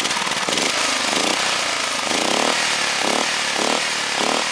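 Race-built Honda small engine, a 13-horsepower unit worked up to about 20 horsepower with no governor, running loudly through a short exhaust, with about five brief surges in its note over the last three and a half seconds.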